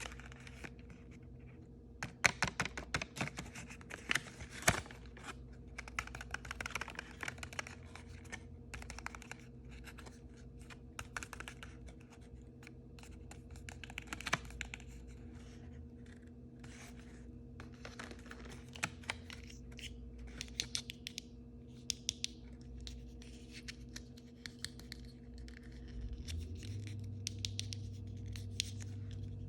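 Hands unwrapping and handling small toy packaging: scratching, tearing and quick clicking and tapping, in irregular clusters. A steady low hum comes in near the end.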